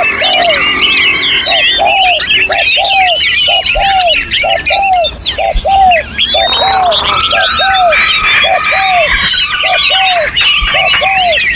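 Many songbirds singing at once in a dense chorus of fast chirps, trills and long whistled notes. Under it, a low arched note repeats steadily about twice a second.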